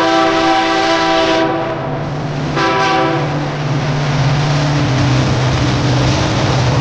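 Locomotive air horn sounding: a long blast that cuts off about a second and a half in, then one short blast. A diesel locomotive engine then runs with a steady low drone as the train moves.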